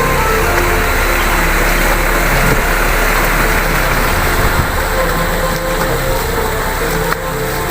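A motor vehicle's engine running, with a rushing hiss that swells in the middle and fades toward the end, over background music.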